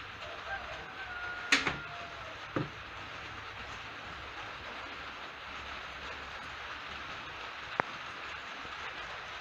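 Steady hiss of rain falling. A faint squeak comes early, then a few sharp knocks, the loudest about a second and a half in, another about a second later and a lighter click near the end.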